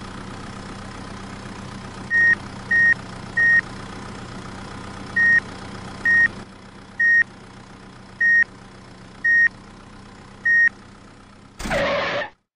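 Tractor engine running steadily under a series of loud, short, high-pitched reversing-alarm beeps, about nine at uneven spacing. A short burst of hiss comes near the end, then the sound cuts off.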